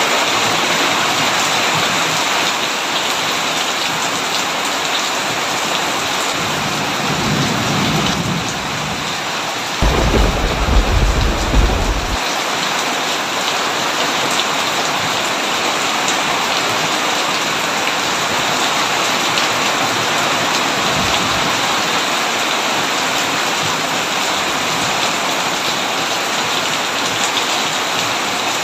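Heavy rain pouring steadily on a tin roof, with thunder: a low rumble builds about six seconds in, breaks into a loud crash about ten seconds in that lasts a couple of seconds, and a fainter distant rumble follows about twenty seconds in.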